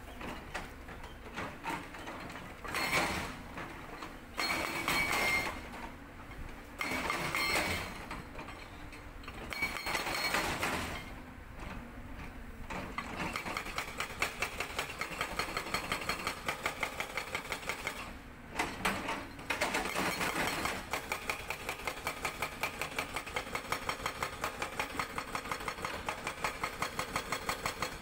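Cat 320D excavator's engine and hydraulics working in uneven surges, then a Sangdo SD220 hydraulic breaker hammering rock in rapid, even blows from about halfway on.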